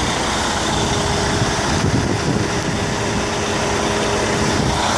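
Freightliner 114SD roll-off truck's Detroit DD13 diesel engine idling steadily.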